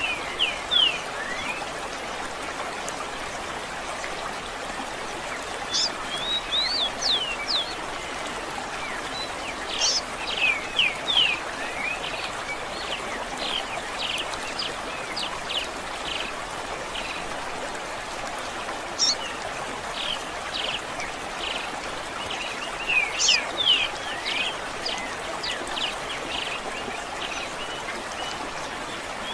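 Songbirds singing in bouts of quick, sharp, mostly falling chirps over steady running water, like a stream.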